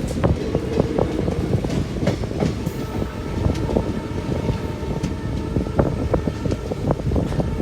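Passenger train running along the track: a steady low rumble with frequent irregular knocks and clatter of the wheels and coaches.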